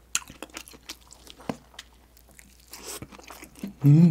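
Close-miked chewing of a dumpling: wet mouth clicks and soft crunches. Near the end comes a short hummed "mm", the loudest sound.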